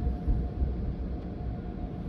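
Steady low rumble inside a vehicle cabin, with a faint steady hum tone over it.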